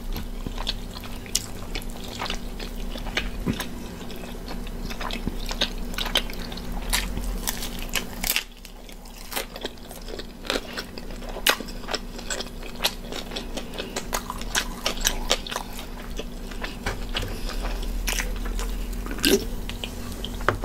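Close-up chewing and biting of a slice of cauliflower-crust pizza, with many irregular sharp crunches and mouth clicks.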